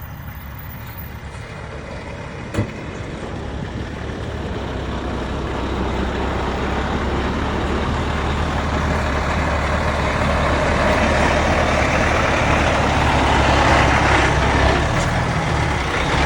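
Dump truck diesel engine running, growing steadily louder as the truck draws closer. There is one sharp knock about two and a half seconds in.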